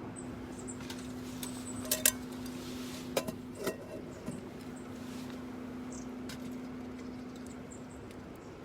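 A few sharp metallic clinks and knocks of camp cookware being handled, two close together about two seconds in and more a second or so later, over a steady low hum.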